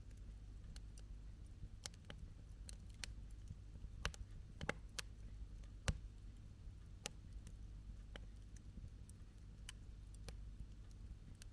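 Wood campfire crackling: irregular sharp pops and snaps, the loudest a few between about four and seven seconds in, over a low steady rumble.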